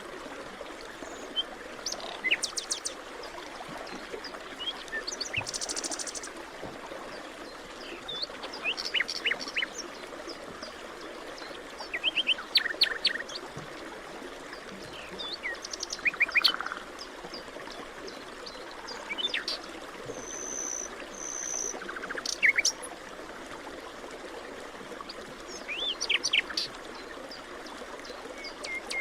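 Several wild birds in a forest calling and singing in short bursts of quick chirps, every few seconds, over a steady rushing background hiss.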